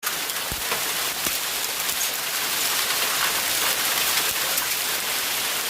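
Hailstorm: hailstones and rain pelting down in a steady dense patter of many small impacts, with a couple of heavier thuds in the first second and a half.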